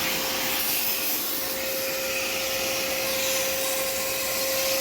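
Electrolux GT20i vacuum cleaner running steadily: a constant whine over a rush of air.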